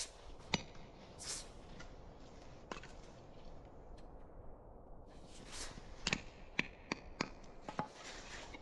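Irregular sharp knocks and snaps of wood being handled, with brushy rustles between them. Most come in a quick cluster in the second half.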